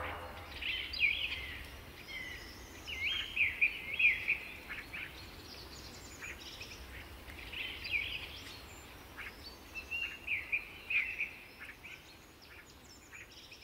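Birds chirping in short phrases of quick gliding notes, with pauses between the phrases, over a faint steady background hiss.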